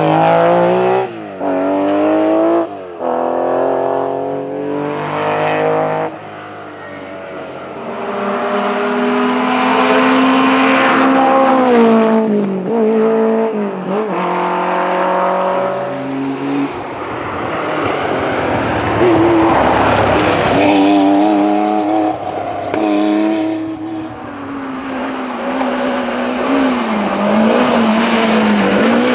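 Historic rally car engines revving hard through the gears as the cars are driven flat out, pitch climbing and dropping sharply at each shift and lift, with tyre squeal at times.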